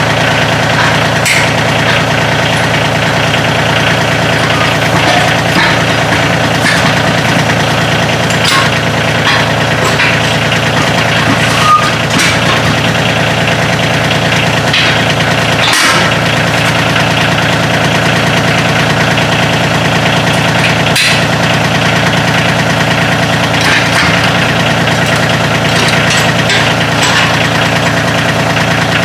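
Kioti CK2610 compact tractor's three-cylinder diesel engine running steadily, with a few sharp knocks.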